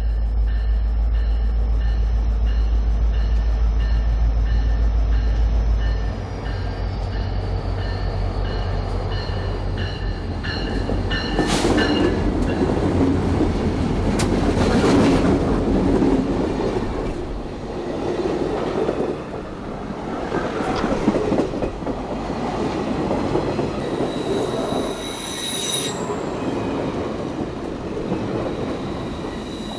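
A CSX diesel-hauled train passing close by. The locomotives' deep engine rumble dominates for the first six seconds, then the train's cars roll past with a dense clattering of wheels on rail. Steel wheels squeal on the rails in high tones near the end.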